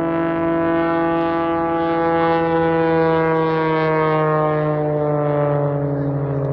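Aircraft engine drone as a plane flies past, a steady buzzing tone that falls slowly in pitch as it goes by.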